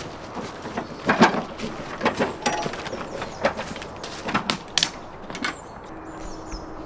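Irregular clicks and knocks, as of things being handled, with a faint steady hum starting near the end.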